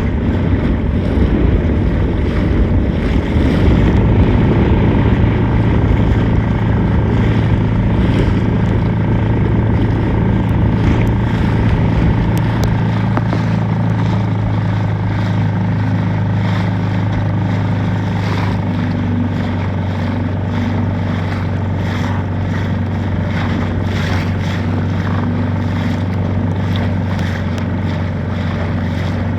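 Motorboat engine running steadily under way, a low even hum. Wind noise on the microphone is strong at first and eases about halfway through.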